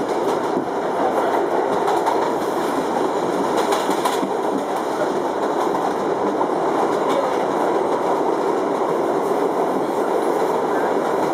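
Inside an R62 subway car moving along the track: a steady, even running noise of wheels on rail and the car body.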